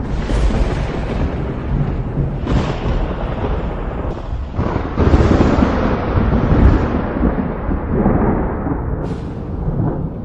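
Thunder rumbling and rolling without a break, swelling louder several times, most strongly around the middle.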